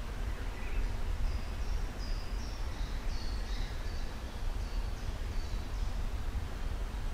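A songbird singing a phrase of about a dozen short high notes, from about a second in to near six seconds, over a steady low rumble.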